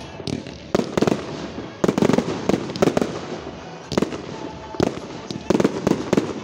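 Aerial firework shells bursting in quick, irregular volleys of sharp bangs.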